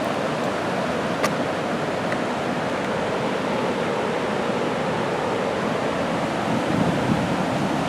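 Fast-flowing floodwater rushing steadily past a bridge, a continuous even roar of moving water.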